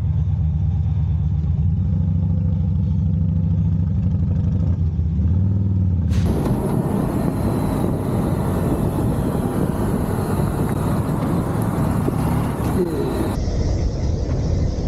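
Motorcycle engine running while riding, with wind and road noise. The sound changes abruptly twice: a steady low engine tone at first, then a noisier rush from about six seconds in.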